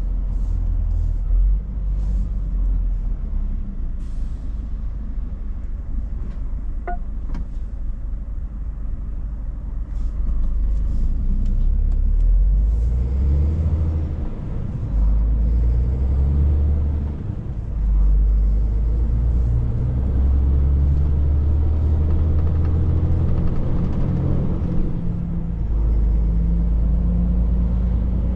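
Scania 500S truck driving on the road, its engine a low steady rumble with road noise. The engine note steps up and down a few times, around 14, 17 and 25 seconds in.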